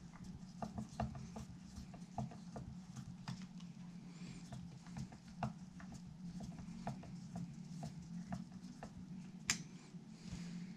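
Irregular light taps and clicks of small tools and parts being handled at a workbench during guitar assembly, over a steady low hum, with one sharper click about nine and a half seconds in.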